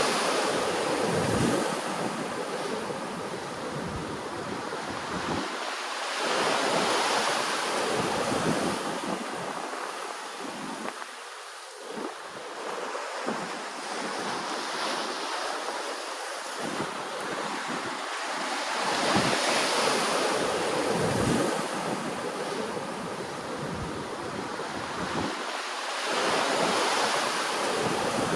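Ocean waves washing ashore, the surf swelling and easing every six or seven seconds, with some wind buffeting the microphone.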